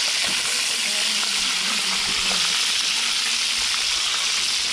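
Halved spiny lobsters frying in hot oil in a pan over a wood fire: a steady sizzle.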